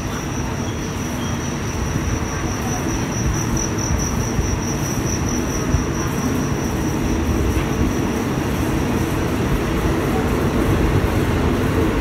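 Diesel passenger train pulling out of a station. A low rumble from the train and its wheels builds slowly as it gathers speed, with a thin, steady high-pitched whine that fades out about seven seconds in.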